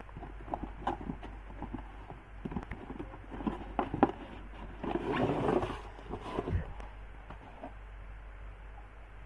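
Hands handling a plastic toy and its packaging: scattered light clicks and knocks, with a louder rustle about five seconds in.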